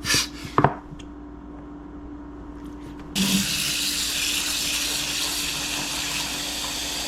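Water running steadily into the tank of an ultrasonic cleaner, filling the bath, starting about three seconds in after a couple of short knocks.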